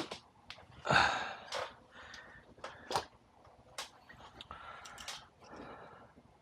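Several sharp clicks and knocks from hand-tool and pipe-fitting work, mixed with a few short breath-like noises. The loudest, a noisy rush, comes about a second in.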